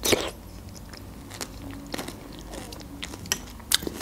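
A spoonful of cream of broccoli soup with croutons taken into the mouth at the start, then chewed, with scattered small crunches of the croutons, heard close on the microphone.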